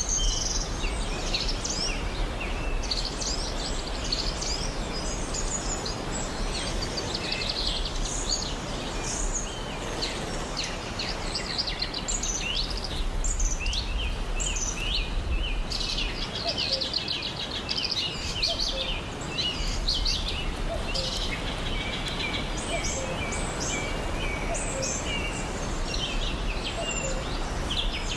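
Many birds chirping and twittering in quick, overlapping calls over a steady background hiss with a low rumble.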